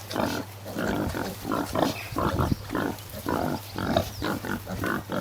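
A farm animal making a fast run of short, rough calls, about three a second, over a steady low hum.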